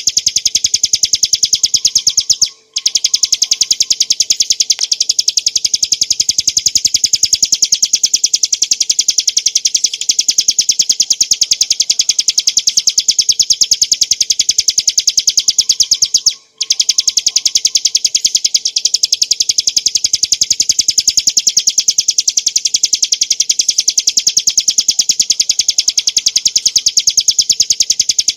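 Bar-winged prinia (ciblek gunung) singing a continuous high-pitched trill of very fast repeated notes, the rapid 'ngebren' style. It breaks off twice briefly, about two and a half seconds in and again about sixteen seconds in.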